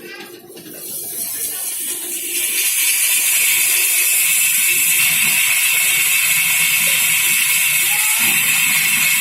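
A steady, loud hissing noise that sets in about two seconds in and holds evenly, strongest in the high range.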